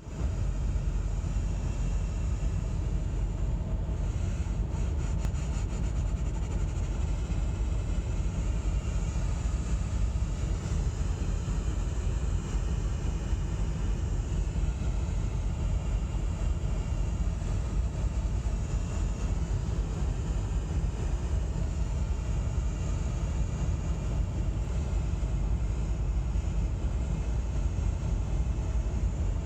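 Lincoln Town Car L being driven: a steady low rumble of engine and road noise that holds even throughout.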